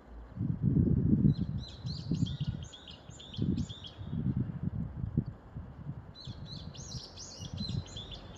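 Small birds chirping in two bouts of quick repeated high notes, one about a second in and one near the end. Louder irregular bursts of low rumble come and go throughout.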